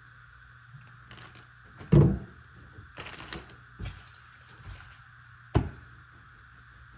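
Kitchen prep handling noises on a counter: a loud knock about two seconds in and a sharp knock near the end, with clattering and rustling in between, over a faint steady hum.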